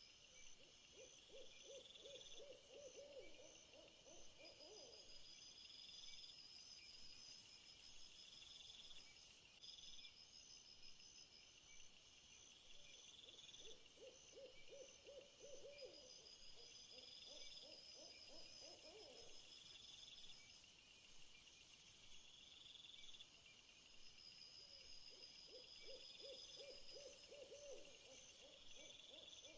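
Faint night ambience: a low trilling call of rapid pulses, each about four seconds long, comes three times about twelve seconds apart, over steady high insect chirping.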